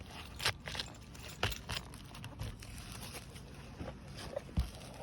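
A few sharp clicks and light scrapes of a hand tool working against asphalt shingles and nails, spaced irregularly, with a louder knock near the end.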